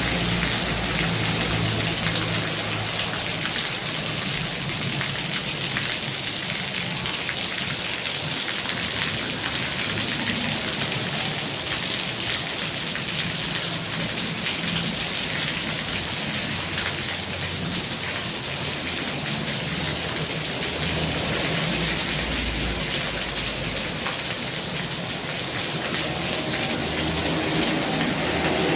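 Heavy rain falling steadily, a dense hiss of drops striking surfaces, with a low rumble coming and going underneath.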